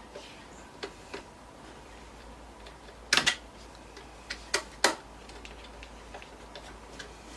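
Scattered small clicks and taps of a screwdriver driving a screw into a desktop computer's metal case. The clicks come irregularly, with a cluster of louder ones about three to five seconds in.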